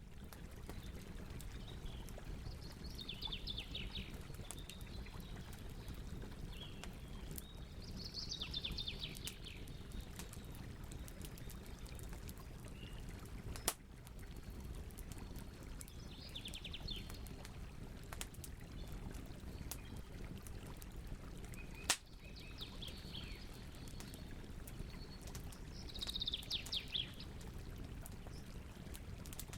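Campfire burning with a steady low rumble, light crackling and two sharp pops. Short songbird trills come in every few seconds.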